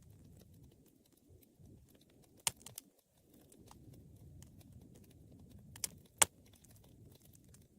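Wood fire crackling: a low, steady rumble of burning with scattered small ticks and three sharp pops, one about two and a half seconds in and two close together near six seconds, the second of these the loudest.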